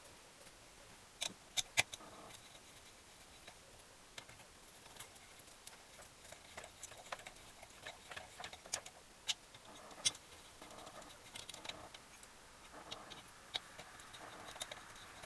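Scattered light clicks and taps with short stretches of soft scraping, from small parts and tools being handled during work on a Gilera Sport 150 engine.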